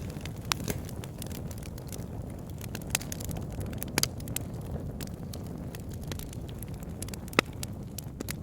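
Wood campfire burning with a steady low rumble and scattered sharp crackles and pops, the loudest pop about seven seconds in.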